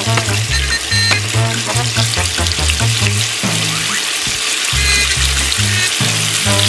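Slices of tofu sizzling in hot oil in a frying pan, with more pieces laid into the pan as it goes, under background music with a repeating bass line.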